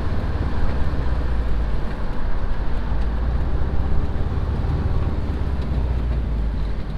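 Volkswagen Type 3 Fastback's air-cooled flat-four engine running steadily while driving, heard from inside the cabin with road noise. The low engine hum eases off about five seconds in.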